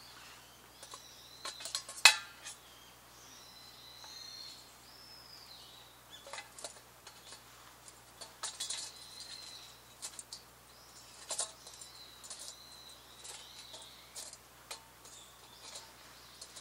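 Wild birds calling repeatedly in woodland, short whistled calls that rise and fall in pitch. Scattered clicks and knocks from hands handling camp gear, with one sharp knock about two seconds in the loudest sound.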